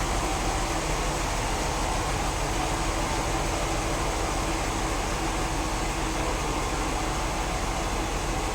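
Sawmill saw machinery running steadily: an even, unbroken noise over a low hum, with no change in pitch or level.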